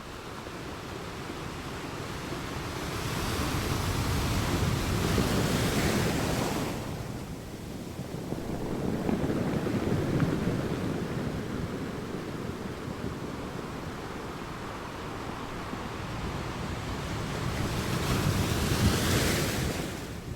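Sea waves surging and washing in, rising and falling in swells: three waves build and break, a little before the middle, at the middle and near the end, each with a hissing wash that falls away quickly.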